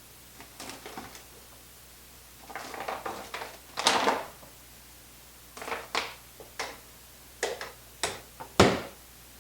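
Objects being handled on a hard surface: rustling for a couple of seconds, then a series of short, sharp knocks and clicks, the loudest near the end.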